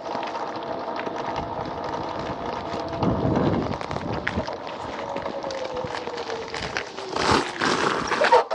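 Electric motor scooter's motor whine falling slowly in pitch as the scooter slows down, with wind noise on the microphone. Near the end, a few louder rustling bursts.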